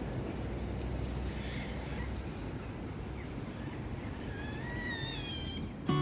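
Steady low outdoor rumble, with a single high whistling chirp that rises and then falls about five seconds in; acoustic guitar music starts at the very end.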